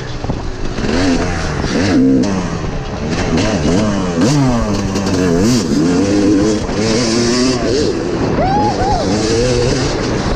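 Dirt bike engine being ridden on a motocross track, its pitch rising and falling over and over as the rider opens and closes the throttle.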